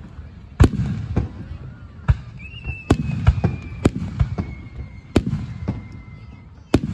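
Aerial fireworks shells bursting in quick succession, about nine sharp booms each trailed by a low rumbling echo. A long high whistle slowly falls in pitch through the middle.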